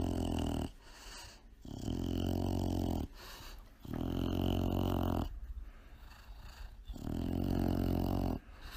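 A dog making four long, low rumbling sounds, each about a second or more long, with short pauses between them.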